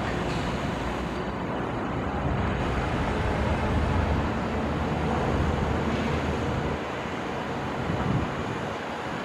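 Steady low diesel engine rumble of heavy construction machinery running, over a background of traffic noise.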